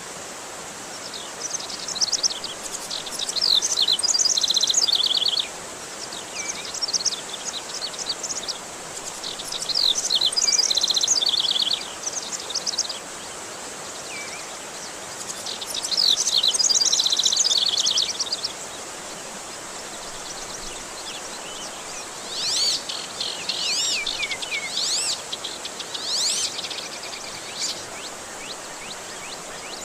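Oriental magpie-robin (kacer) singing in four loud bursts of rapid, high trilled notes, the last burst with looping whistled sweeps, over a steady hiss of running water used as a stimulus to get a silent kacer singing again.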